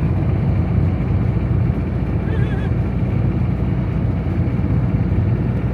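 Steady low road and engine rumble heard from inside a moving motorhome, with a brief high warbling tone about halfway through.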